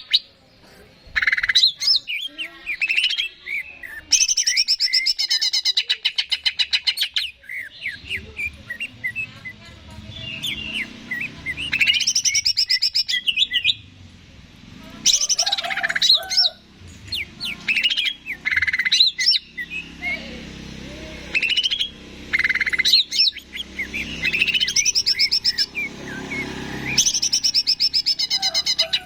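Cucak ijo (green leafbird) singing: phrases of fast rattling trills and chattering notes a few seconds long, repeated with short pauses.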